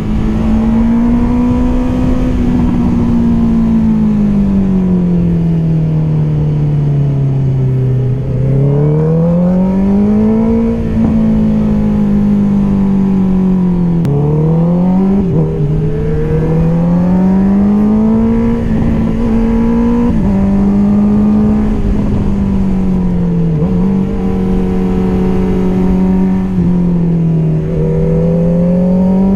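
Honda CBR650R's inline-four with an Akrapovic exhaust running under way. The engine note rises and falls as the throttle is opened and closed, with several sudden drops in pitch where it changes gear.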